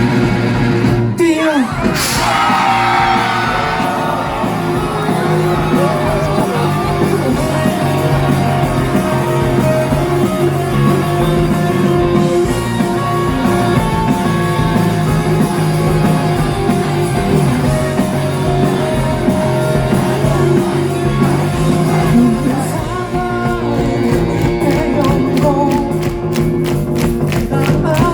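Live rock band playing loud, with electric guitars, drums, singing and crowd shouts. A steep downward pitch slide comes about a second in, and quick drum hits build in the last few seconds.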